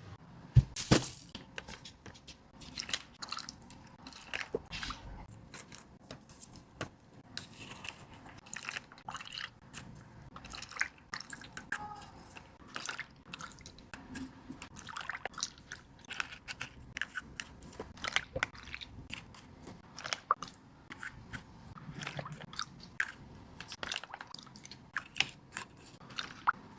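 Kitchen food-prep sounds for a dog's mushroom soup: irregular crisp crunches, taps and clicks of ingredients being cut and handled, with a louder knock about a second in.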